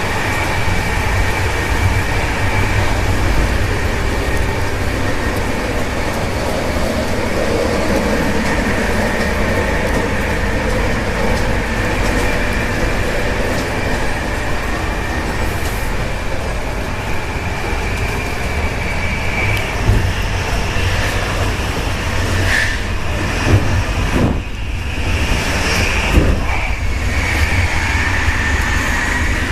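Running noise of a Czech Intercity passenger train heard from inside a compartment: a steady low rumble with a thin, steady high whine, and a few short knocks in the second half.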